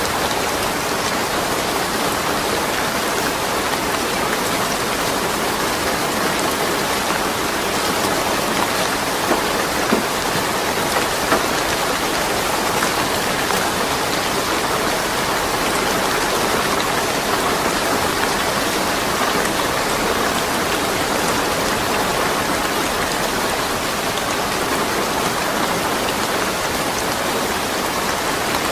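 Steady rain falling, a dense even hiss of drops on surfaces with a few louder drops standing out briefly, and no thunder.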